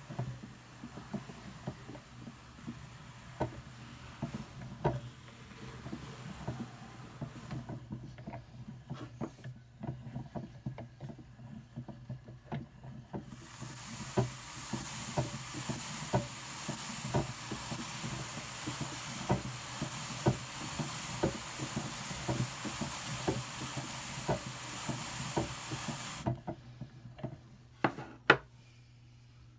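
Hand-cranked drum carder with fine carding cloth turning, ticking about once a second as the drums go round. Through the middle stretch there is a steady hiss of wool fibre passing over the carding teeth, which stops a few seconds before a single sharp click near the end.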